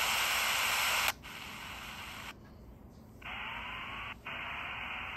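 Small shortwave radio hissing static with no station coming through, the sign of its weak reception. The hiss changes abruptly several times as it is tuned, dropping quieter for about a second midway, then returning with a faint rising whistle.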